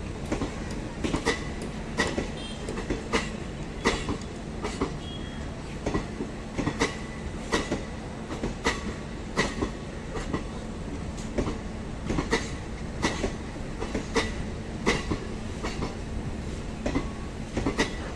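MEMU electric train running on the rails: a steady rumble with the clickety-clack of wheels striking rail joints about once a second.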